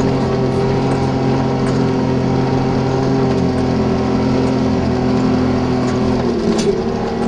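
Four-wheel drive's engine running steadily under load as it drives through snow, heard from inside the cab; the engine note shifts as the revs change about six seconds in, with a brief click shortly after.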